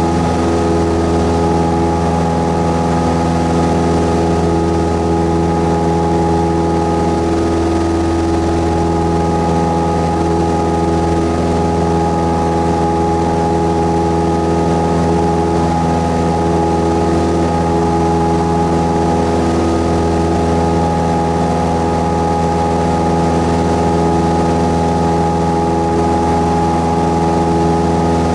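Cessna 172S's four-cylinder Lycoming engine and propeller running at a steady, unchanging speed: a constant drone with a strong low hum and several steady tones above it.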